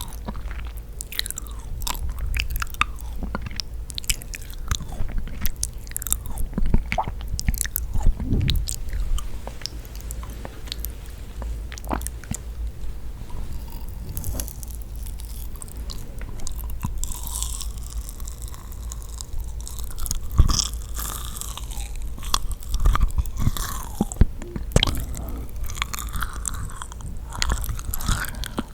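Close-miked chewing of yakgwa, a sticky honey-soaked Korean fried cookie: continuous bites and chewing with many small sticky, wet clicks and smacks.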